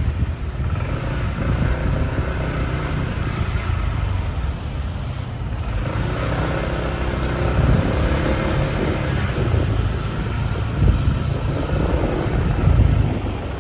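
Road traffic and motor vehicle noise with wind rumbling on the microphone, as heard riding along on a motorbike. An engine note stands out between about six and nine seconds in.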